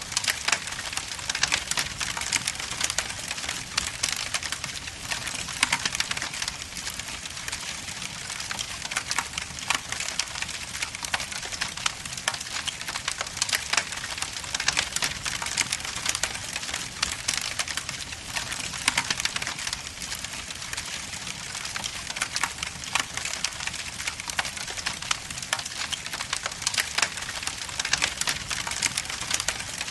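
Logs burning in a fireplace: a steady high hiss with dense, irregular crackles and pops throughout.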